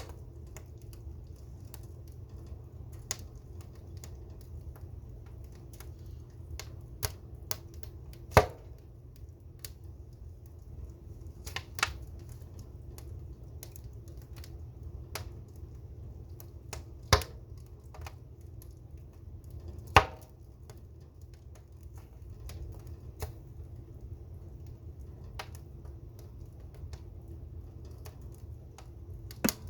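Fire crackling: scattered small snaps with a few much louder single pops, over a low, steady rumble.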